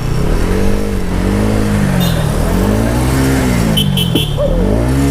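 Motor vehicle engine revving up and easing off in about four swells, its pitch rising and falling each time.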